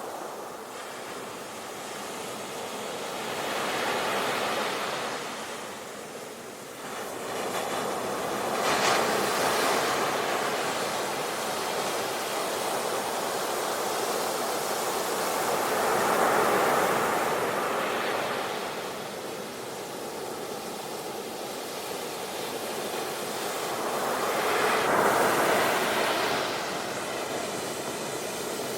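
Ocean surf: waves washing in as a continuous hiss that swells up four times and falls back between.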